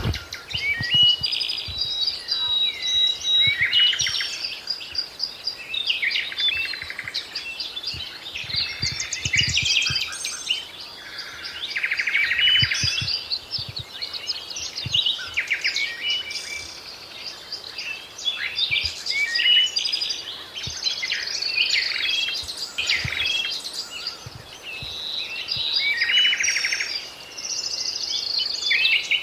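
Several songbirds singing and calling at once: overlapping high chirps, whistled notes and fast trills with no pause, with faint low bumps underneath.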